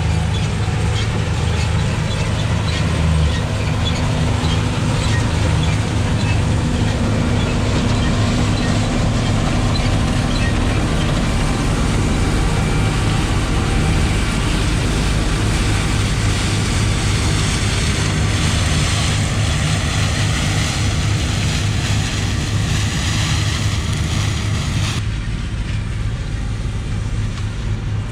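John Deere 8820 combine running steadily, a constant low diesel drone under a dense machinery hiss. About three seconds before the end the higher hiss cuts off abruptly, leaving the low drone.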